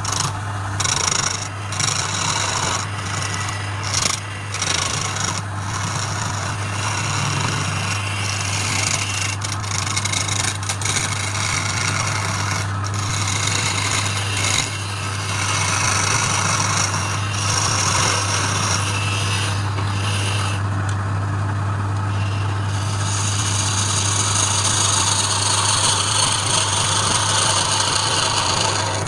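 Wood lathe running with a steady motor hum while something rubs and scrapes against the spinning workpiece, in uneven strokes at first and then steadily.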